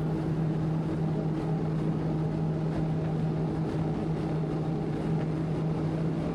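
Sea-Doo jet ski engine running at a steady cruising speed: a constant even drone over a steady hiss.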